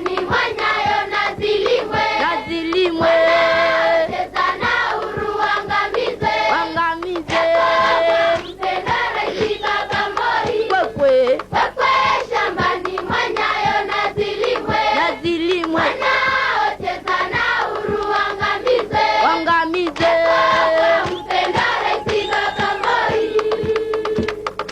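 Music with a group of voices singing together, choir-style, with some notes held.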